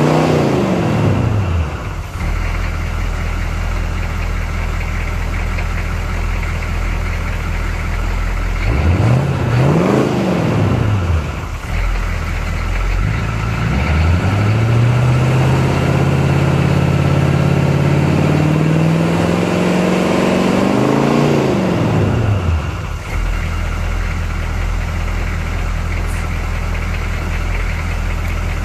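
Chevrolet 6.2-litre diesel V8 exhausting through two Cherry Bomb mufflers, idling and being revved. A rev falls back to idle right at the start and a short blip comes about nine seconds in. From about fourteen seconds a long, slow climb in revs peaks around twenty-one seconds, then drops back to a steady idle.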